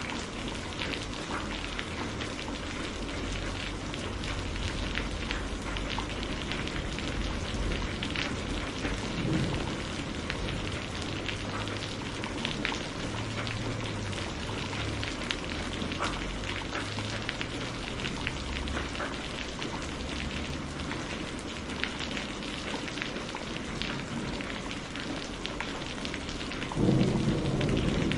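Steady heavy rain hissing, with many scattered drops clicking. A deep rumble of thunder swells up near the end.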